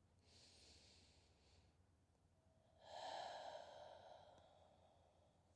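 A woman's slow, deep breath: a faint inhale, then a longer, louder exhale starting about three seconds in and fading away.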